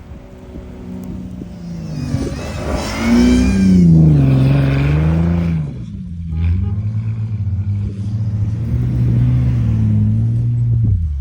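A 4x4's engine revving, rising and falling in pitch from about two seconds in, then holding a steady, slightly pulsing drone under load before dropping off at the very end.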